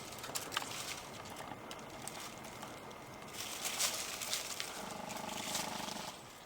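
Footsteps crunching on a leafy forest trail in an irregular series of crackles, with a brief low buzz lasting about a second near the end.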